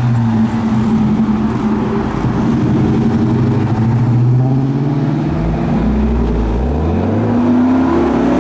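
Car engines and exhausts as cars pull away: one engine holds a steady note for the first few seconds. About halfway through, a deeper engine note revs up, rising in pitch.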